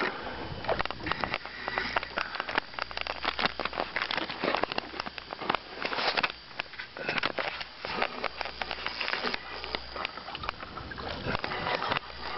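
Ultralight spinning reel clicking in rapid, uneven runs as a hooked pike pulls line off against the drag.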